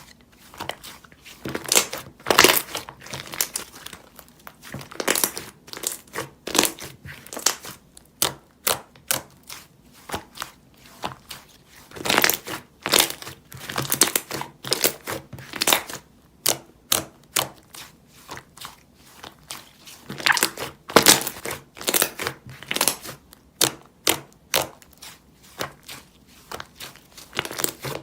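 Vanilla butter slime being squished and pressed by hand, giving irregular short pops and clicks, some in quick clusters.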